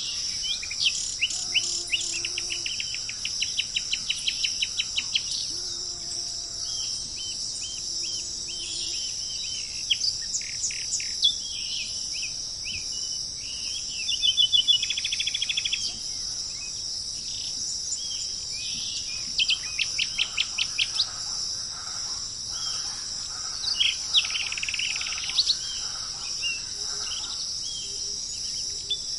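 Songbirds singing and calling, several phrases of fast trilled chirps and short whistled notes, over a steady high-pitched drone of insects.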